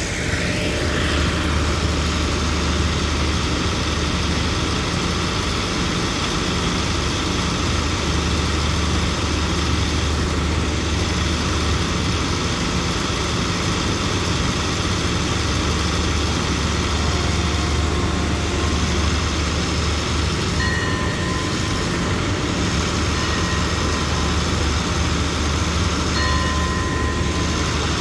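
Diesel passenger train at a station platform, with a steady low engine rumble and running noise throughout. A few short, faint high tones come in the second half.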